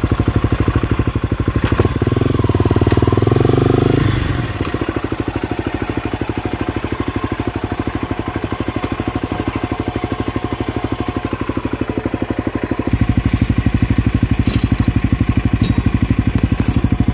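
Honda CRF 250L's single-cylinder four-stroke engine, fitted with an FMF Q4 silencer, running at low speed with an even, rapid pulse as the bike is ridden slowly. About two seconds in it grows louder for a couple of seconds, then settles back, with a few sharp clicks near the end.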